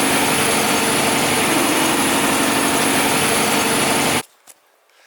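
Logging truck's diesel engine running steadily with a loud rush of cab and road noise, heard from inside the cab. It cuts off abruptly about four seconds in.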